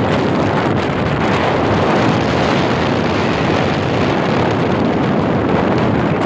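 Speedboat under way: the engine running steadily at speed under a loud rush of wind buffeting the microphone.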